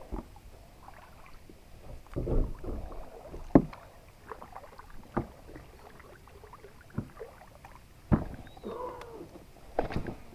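Kayak paddling: several sharp knocks a second or two apart, typical of the paddle striking the hull, over low water noise.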